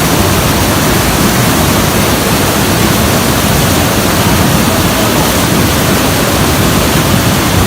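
Floodwater rushing past, a loud, steady, unbroken noise.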